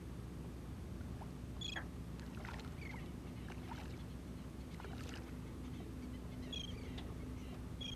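Steady low rumble of wind and water around a small fishing boat, with faint scattered short bird chirps and a faint steady hum.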